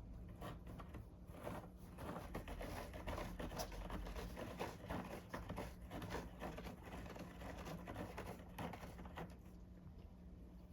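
A cat scratching and biting at styrofoam: a busy run of quick, scratchy crackles and rubbing sounds that thins out near the end.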